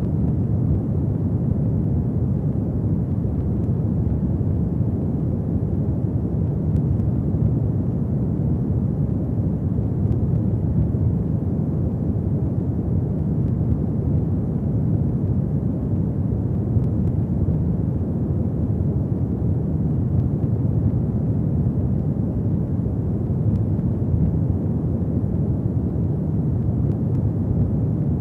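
Fireplace fire burning: a steady low rumble with a few faint crackles.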